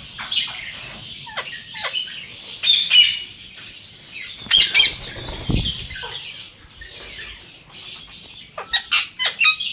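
Parrot making short, sharp chirps and squawks, several sweeping down in pitch, scattered irregularly, with a louder cluster near the end. About five and a half seconds in there is one dull low thump.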